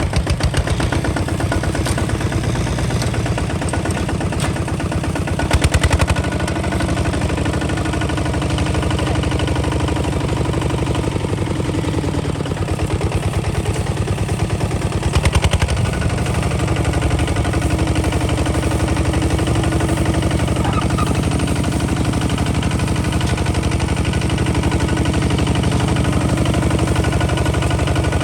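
Kubota ZT 155 DI single-cylinder diesel engine of a two-wheel tractor running steadily with a rapid, even chugging. There are two brief louder bursts, about six and fifteen seconds in.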